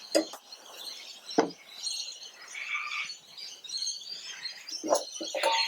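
Birds chirping in the background, with a few light knocks from mower parts being handled.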